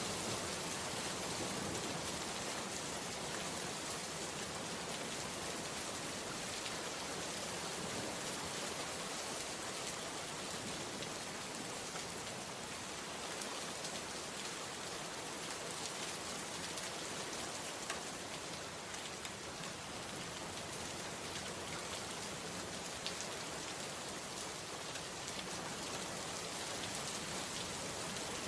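Steady rain falling, with a dense patter of drops on a surface and faint individual drop ticks.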